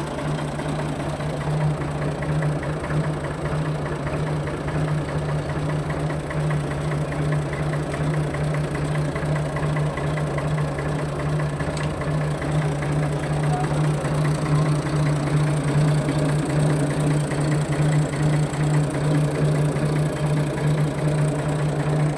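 Ford 4610 tractor's three-cylinder diesel engine running steadily at an even speed.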